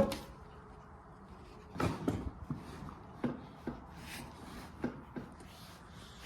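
Scattered light knocks and rubbing from a loose car back seat being handled and set in place, the loudest knock about two seconds in.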